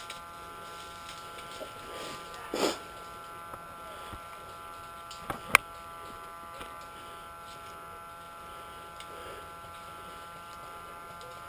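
A steady electrical whine of several constant tones runs underneath. It is broken by a short, muffled burst about two and a half seconds in and one sharp crack of an airsoft gun shot about five and a half seconds in.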